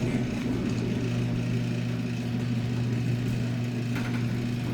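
Garage door running on its freshly greased rollers, driven by its opener with a steady hum, and running quietly.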